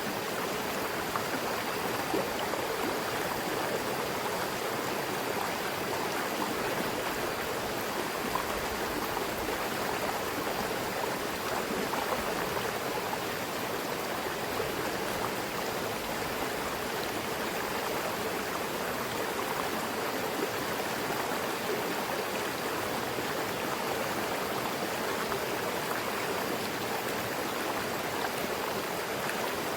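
Mountain river flowing over rocks: a steady rush of running water with a bubbling texture and no pauses.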